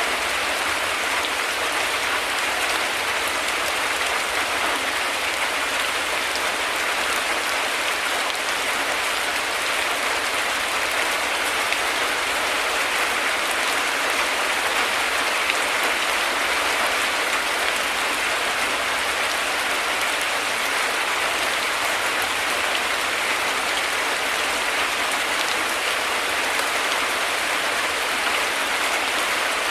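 Heavy rain falling steadily: a dense, even hiss of drops with no breaks or thunderclaps.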